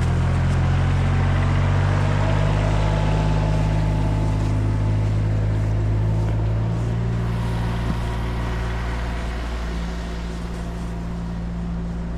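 An engine running steadily at an even speed, with a low hum that gets a little quieter in the second half.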